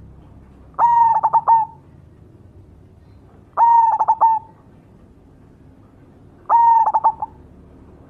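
Black cemani zebra dove (perkutut) cooing: three phrases about three seconds apart, each a held coo breaking into quick stuttering notes.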